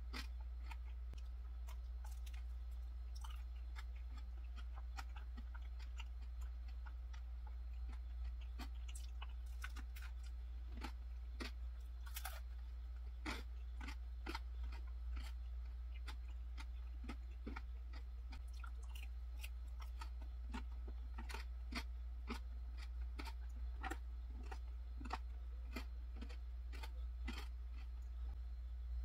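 Close-miked chewing of a canelé, with many small, sharp mouth clicks scattered throughout. A steady low hum sits underneath.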